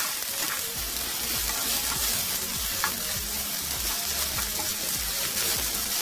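Soya chunks sizzling as they fry in coconut oil in a nonstick frying pan, with a steady hiss. A wooden spatula stirs them and scrapes or taps the pan now and then.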